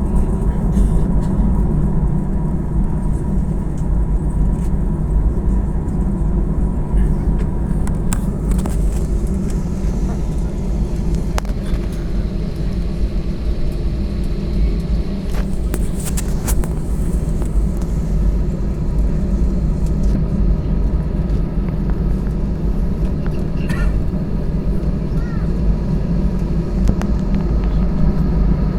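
Airbus A320 cabin noise during taxi: a steady low rumble from the engines at idle, with a constant hum, and a few light knocks and rattles from the cabin.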